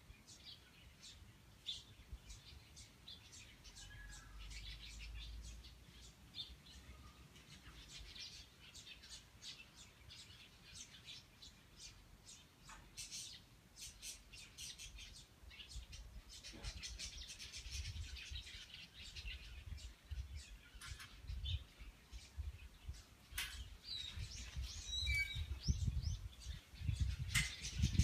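Small birds chirping: many short, high chirps scattered throughout, with a few brief sliding notes. A low rumble grows louder over the last few seconds.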